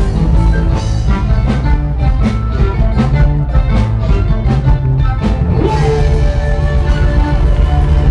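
A band playing loud rock music with guitar, heavy bass and drums. The drum hits are clear at first, and about six seconds in the music changes to a smoother, sustained passage.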